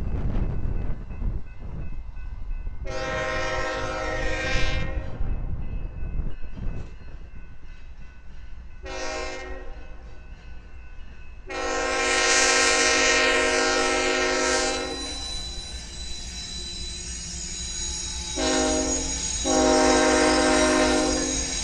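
Diesel locomotive air horn sounding a multi-note chord in a series of blasts: a long one, a short one, a longer one, then a short one running straight into another long one. The low rumble of the moving train runs underneath.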